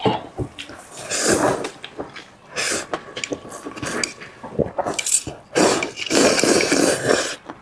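Close-up eating sounds: wet slurping and chewing of food in uneven bursts, with a few light clicks of tableware.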